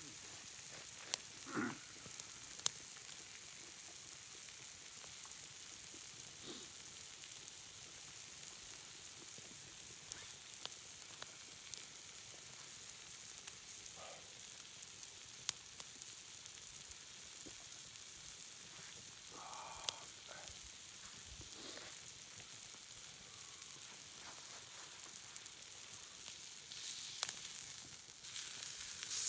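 Food sizzling in a frying pan: a steady hiss with scattered pops and crackles, growing a little louder near the end.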